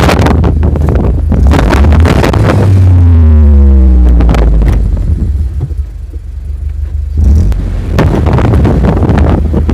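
Motor vehicle engine running off-road under a heavy low rumble. About three seconds in, the revs drop away in a falling whine, then the rough, noisy running picks up again near the end.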